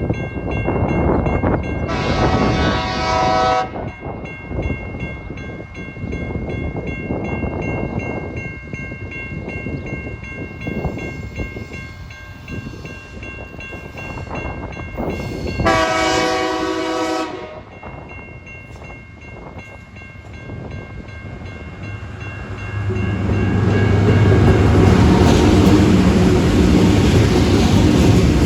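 Two blasts of a diesel locomotive's horn, each about a second and a half long, the first about 2 s in and the second about 16 s in. From about 23 s the locomotives' diesel engines grow loud and hold a heavy, low drone as the train reaches the crossing.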